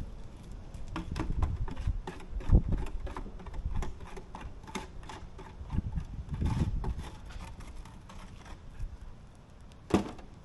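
Irregular light taps, clicks and knocks from hand work on the repair, with a louder thump about two and a half seconds in and a sharp knock near the end.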